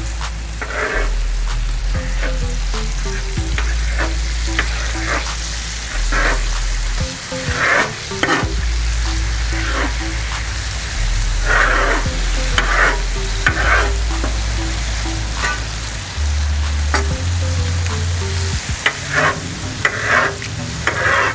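Sliced ribeye sizzling on a Blackstone flat-top griddle while a knife and spatula chop and scrape it against the steel surface, in repeated short strokes. Background music with a low bass line runs underneath.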